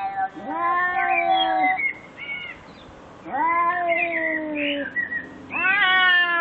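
An animal calling: three long, drawn-out pitched calls, each lasting over a second, with quieter gaps between them. The last starts near the end.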